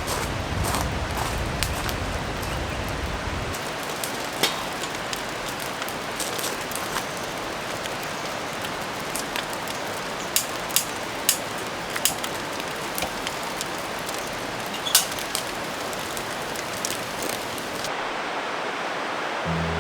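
Campfire crackling: scattered sharp pops and snaps over a steady hiss.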